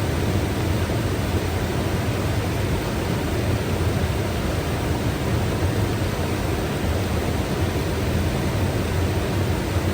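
Mountain river rushing steadily: an even, full roar of flowing water with a strong low rumble and no separate splashes standing out.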